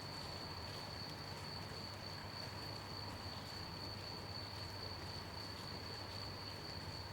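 Crickets chirping in one continuous high-pitched trill, over a soft, even hiss of gentle rain.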